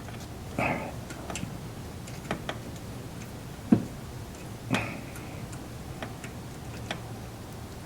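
Irregular light clicks and taps of small metal parts and tools being handled while a screw is worked into place by hand, with a sharper knock a little under four seconds in and a short scrape about a second later.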